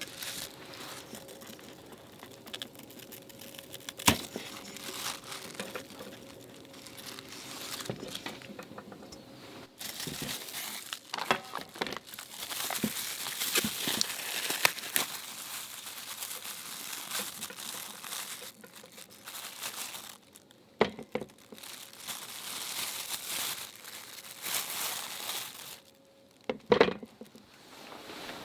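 Crinkly material being crumpled and rustled by hand in several long spells, with a few sharp knocks along the way, the loudest near the end.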